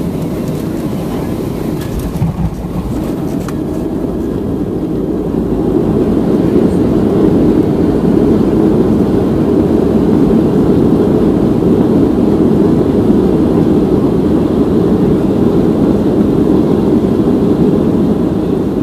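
Cabin noise of a Boeing 737-700 on landing, heard from a window seat: a couple of knocks about two and three seconds in, then the CFM56 engines' rushing noise builds from about five seconds and holds loud, typical of reverse thrust during the landing rollout, easing slightly near the end.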